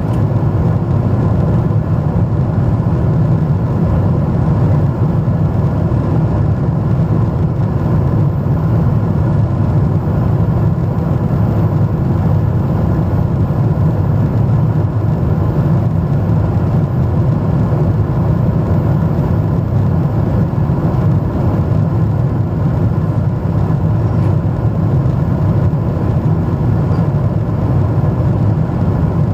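Steady jet airliner cabin noise in flight: the even drone of the engines and airflow, heaviest in the low range, with no changes in power.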